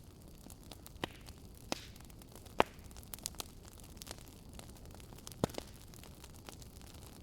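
Fireplace crackling: a steady low hiss with irregular sharp pops, the loudest about two and a half seconds in and another near five and a half seconds.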